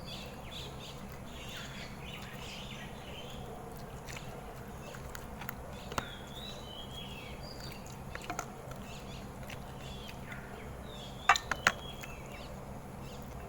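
Outdoor ambience of small birds chirping and calling in short swooping notes over a steady low background hum, with a few sharp clicks, the loudest two close together near the end.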